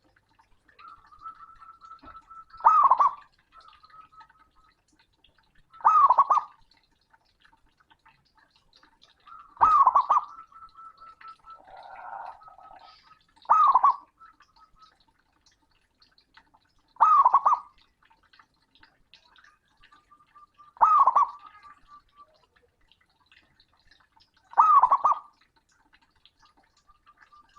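Male zebra dove (perkutut) cooing loudly, a short call repeated seven times about every three to four seconds, as a male calling out to a rival. Between the calls come faint runs of quick, soft notes.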